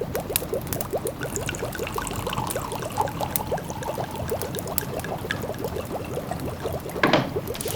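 A pot of food simmering, its bubbles popping in a steady stream several times a second, with a wood fire crackling faintly over it. One bigger bubbling burst comes near the end.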